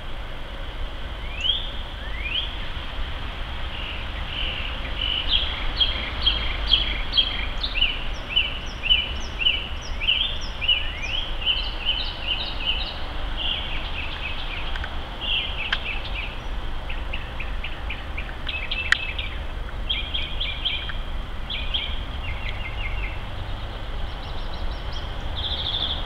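Wild songbirds calling in runs of short, quick, high chirps, with a couple of rising calls near the start, over a steady low rumble.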